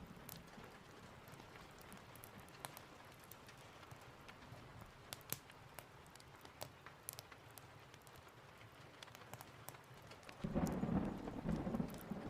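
Steady rain with scattered sharp crackles and ticks. About ten seconds in, a sudden low rumble of thunder comes in louder and rolls on.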